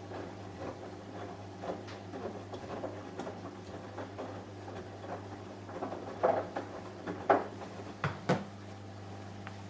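Samsung Eco Bubble washing machine running a wash cycle: a steady motor hum under irregular soft taps and knocks from the turning drum, with a few louder knocks between about six and eight seconds in.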